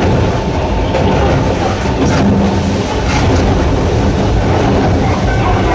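Narrow-gauge electric train of the Sangi Railway Hokusei Line running, with the steady growl of its nose-suspended traction motors under wheel-on-rail rumble. Two sharp clacks come about a second apart, around two seconds in.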